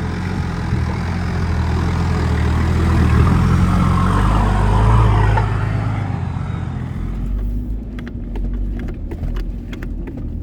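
A four-wheel drive's engine running as the vehicle drives the sand track, building to a peak about five seconds in and then easing off. A few sharp clicks follow near the end.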